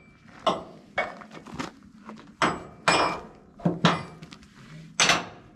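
A series of about eight sharp knocks and clanks at uneven intervals, some with a short metallic ring.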